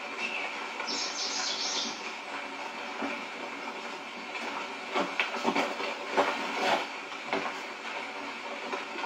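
Steady rain hiss with a few louder knocks or taps between about five and seven seconds in.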